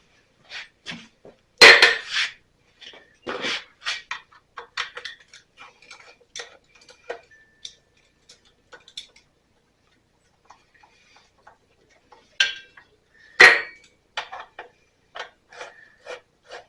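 Hand tools and metal engine parts clinking and clicking irregularly while the cover is worked off a small engine, with louder metallic knocks about two seconds in, at three and a half seconds, and twice around twelve to fourteen seconds.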